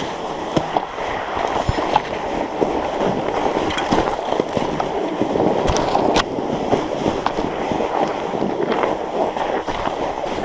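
Steady rolling crunch of a fat bike's wide tyres over snow and frozen ground, with scattered sharp clicks and knocks, the loudest about six seconds in.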